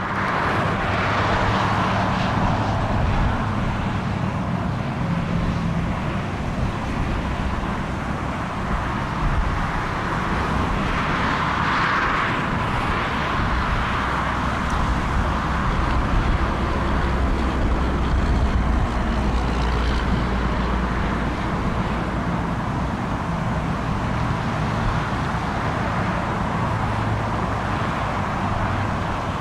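Jet airliner engines running: a steady loud rush with a low hum beneath, starting abruptly.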